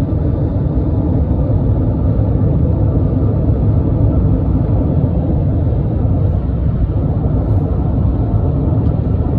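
Steady road and wind rumble from a car travelling at about 84 mph, heard from inside the moving car.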